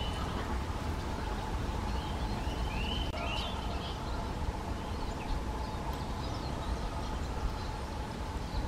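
European greenfinch giving a few short chirping call notes, one right at the start and a pair about three seconds in, with fainter notes later. They sound over a steady low rumble.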